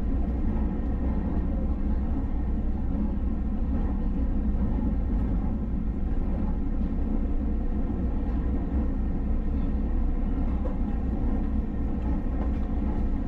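Steady running rumble of a passenger train heard from inside the carriage, with a constant hum under it.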